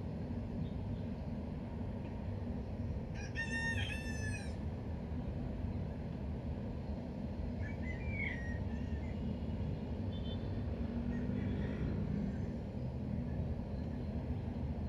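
A bird calling once, loudly, for about a second and a half, with a few fainter short calls later, over a steady low background rumble.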